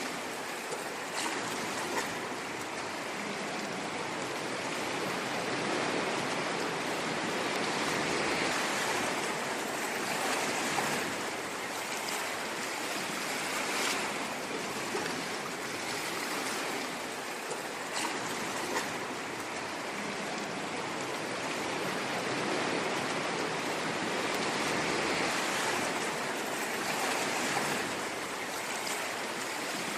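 Ocean waves washing on a shore: a continuous rushing hiss that swells and eases gently every few seconds.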